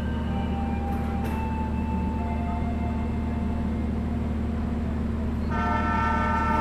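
Passenger train approaching through a station, with a steady low rumble of its diesel locomotive. About five and a half seconds in, the locomotive's horn starts sounding.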